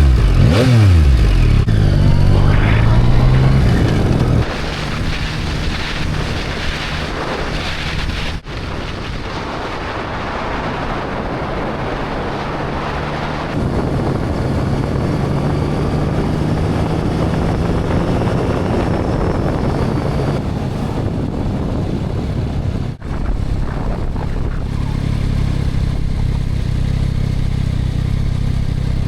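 Motorcycle engine pulling away, its pitch rising and falling through the gears for the first few seconds, then running steadily at cruising speed.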